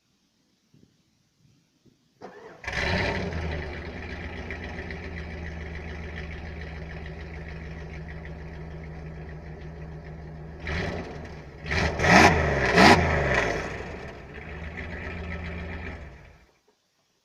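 Jeep Grand Cherokee ZJ's 5.2-litre V8 heard through its exhaust: it cranks briefly, starts with a flare and settles into a steady idle. About eight seconds later it is blipped three times, the last two the sharpest and loudest, drops back to idle and is switched off near the end.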